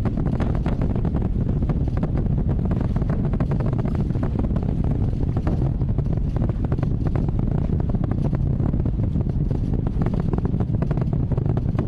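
Space Launch System rocket in powered ascent, its four RS-25 core-stage engines and two solid rocket boosters firing: a steady deep rumble with dense crackling.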